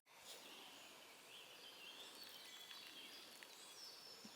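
Near silence with faint birdsong: short, high chirps and trills.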